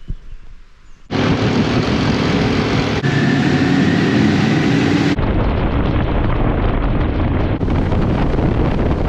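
Motorcycle running at road speed with heavy wind rushing over the microphone. It starts abruptly about a second in and changes suddenly twice more as one riding clip cuts to the next.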